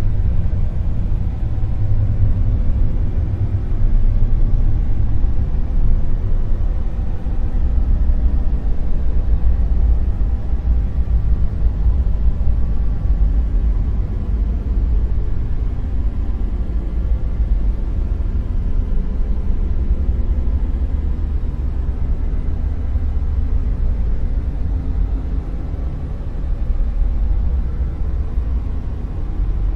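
Dark noise: a steady, deep rumbling noise with its weight in the bass and a dull, muffled top, slowly swelling and easing in level without a break.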